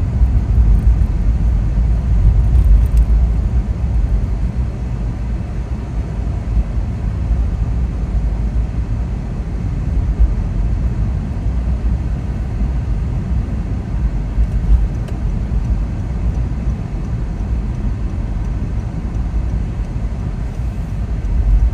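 Steady low rumble of a car being driven: engine and road noise with no distinct events.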